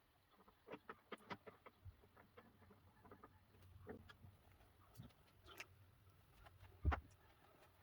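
Faint, scattered light clicks and taps, with one louder knock about seven seconds in.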